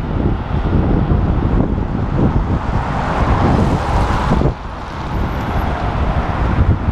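Wind buffeting the camera microphone on a moving bike, with city road traffic underneath. The rumble eases briefly about four and a half seconds in, then picks up again.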